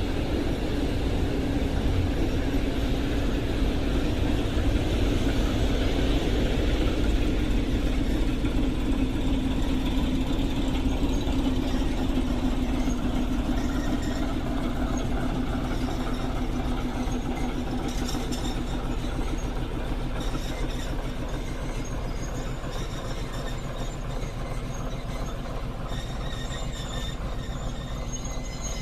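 A train running past on the line: a continuous heavy rumble with a low engine-like hum that sinks slightly in pitch and grows gradually quieter through the second half.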